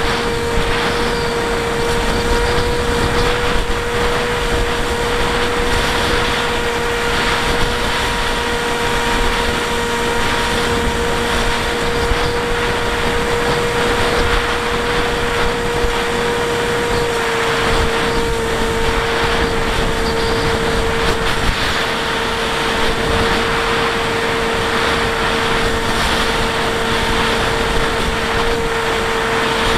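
Bixler 1.1 electric pusher plane's brushless motor and propeller whining at a steady pitch in flight, heard on board under heavy wind rush. The pitch shifts slightly about halfway through.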